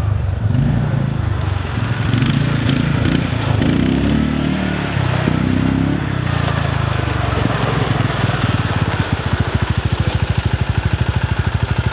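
Quad bike (ATV) engine running, its pitch rising and falling as it is ridden, then settling into a steady, evenly pulsing idle in the second half.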